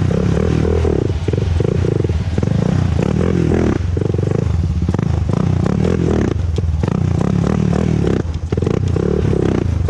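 Honda TRX400EX ATV's single-cylinder four-stroke engine running as it is ridden, with a brief drop in level about eight seconds in.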